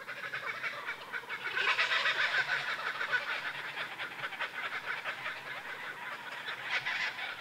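Birds calling together in a rapid, chattering chorus, swelling about a second and a half in and with another burst near the end.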